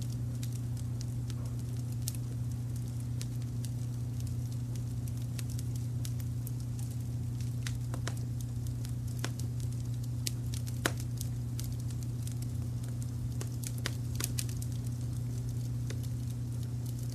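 Wood fire crackling with scattered sharp pops, one louder pop about eleven seconds in, over a steady low rumble of brown noise.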